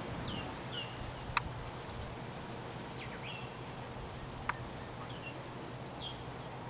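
Small birds chirping with short, scattered calls over a steady low background noise, with two sharp ticks, one about a second and a half in and another about three seconds later.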